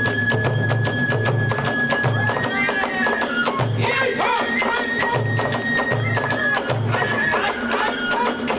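Hiroshima kagura hayashi: a bamboo transverse flute holding a high note over rapid clashing hand cymbals and beats of a large drum.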